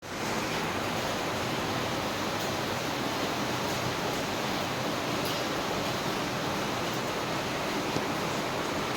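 Heavy rain falling steadily, a dense even hiss with a few faint ticks of drops.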